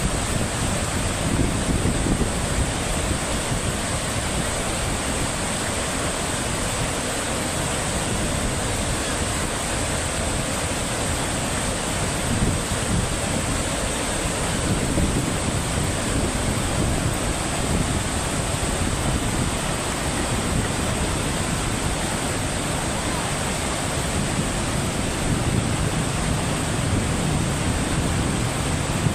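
Steady rushing noise of fast-moving water, with wind on the microphone.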